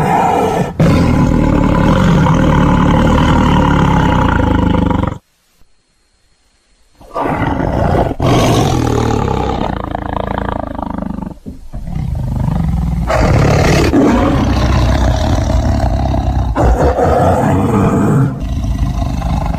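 A large animal roaring loudly in two long stretches, separated by about two seconds of silence.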